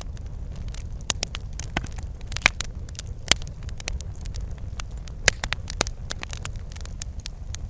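Fireplace fire crackling: irregular sharp pops and snaps, a few louder ones, over a steady low rumble of the burning fire.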